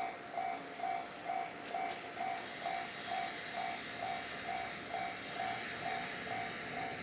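Railway level-crossing warning bell ringing at an even pace, about two rings a second, over the fading noise of a freight train that has just passed.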